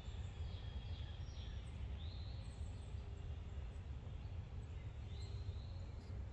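Several birds chirping over a steady low rumble of outdoor background noise.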